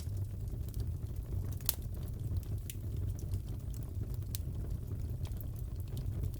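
Wood fire crackling in a fireplace: a steady low rumble of flames with scattered sharp pops, the loudest about a second and a half in.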